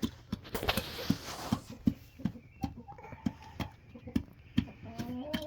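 Hens in a coop: a few soft clucks among scattered light taps and rustles, and a short rising call near the end.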